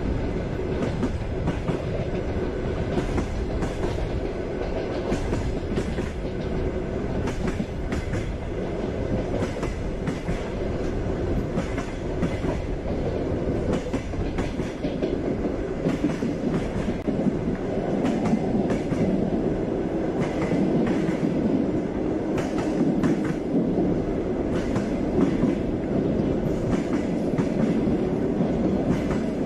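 Passenger train running along the track: a steady rumble with the clickety-clack of wheels over rail joints. The rumble deepens a little about halfway through.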